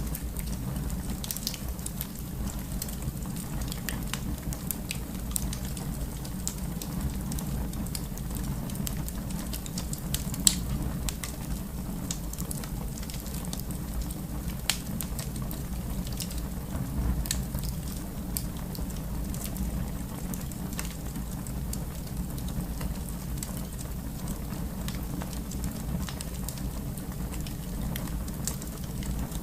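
Wood fire in a fireplace crackling, sharp pops scattered over a steady low rumble, with one louder pop about ten seconds in.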